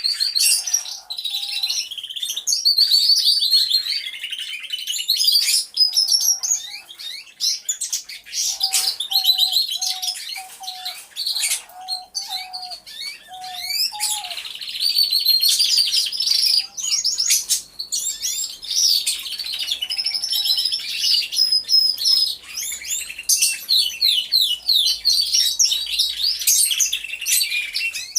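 Many canaries singing together, a dense chorus of overlapping rapid trills and warbles. In the middle comes a run of about eight short, lower notes.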